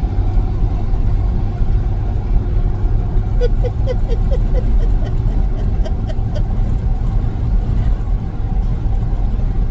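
Steady low rumble of a truck's engine running, heard from inside the cab. About three and a half seconds in comes a quick run of five or six short pitched sounds with faint clicks, then a few more scattered ones.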